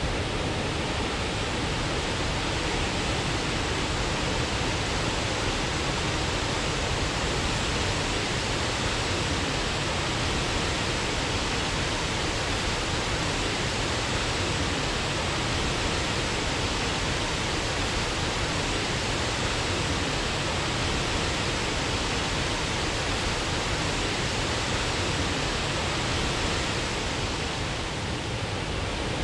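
Waterfall: steady rush and roar of falling water, unchanging throughout.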